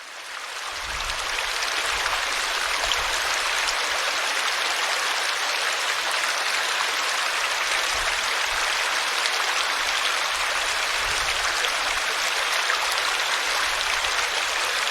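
A forest stream flowing and babbling over rocks: a dense, steady rush of water. It fades in over the first second or so.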